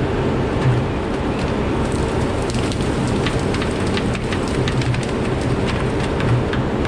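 Rain pattering steadily in many small drop ticks, with a heavy machine's diesel engine running low underneath.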